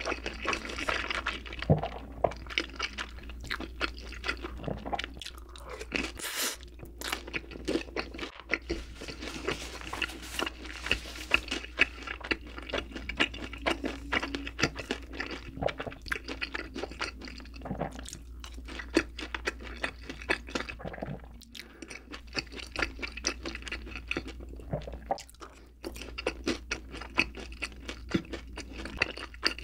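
A person chewing food close to the microphone: a dense, irregular run of crunchy, wet chewing clicks, easing briefly a few times, over a steady low hum.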